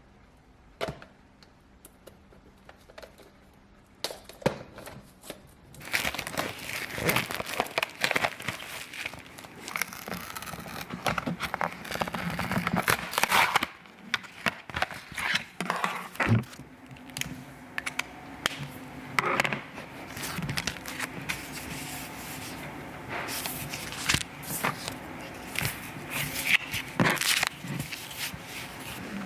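Crinkling and rustling of something being handled, with scattered sharp clicks and knocks, starting after a few quiet seconds.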